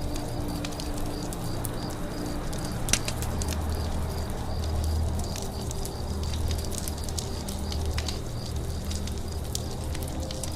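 Campfire crackling, with irregular sharp pops over a low steady rumble of flames; one pop about three seconds in stands out. A high, short chirp repeats evenly a few times a second over it.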